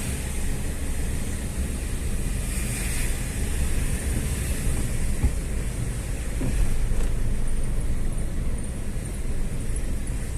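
Motor vehicle driving along a road: a steady low rumble of engine and tyres with a hiss of wind.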